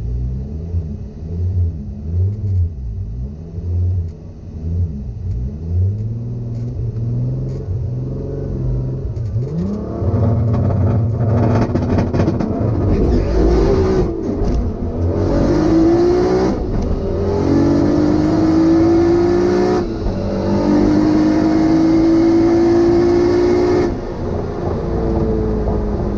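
Stock 2.8 VR6 engine heard from inside the car's cabin, revved up and down repeatedly on the line for about ten seconds. It then launches into a full-throttle drag-strip pass, its pitch climbing through each gear with three upshifts, and backs off about two seconds before the end.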